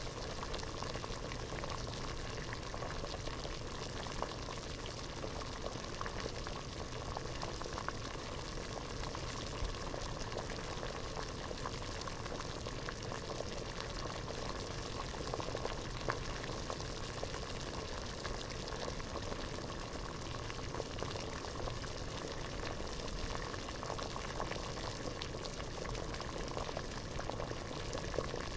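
Water at a rolling boil in a pot, a steady dense bubbling made of many small pops and gurgles.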